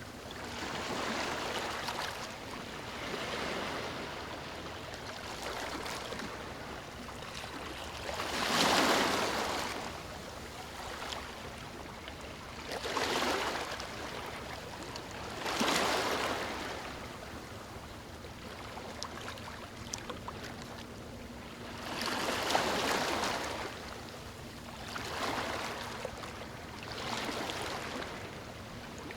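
Ocean waves washing onto a beach: a steady hiss of surf that swells each time a wave breaks, every few seconds, loudest about nine and sixteen seconds in.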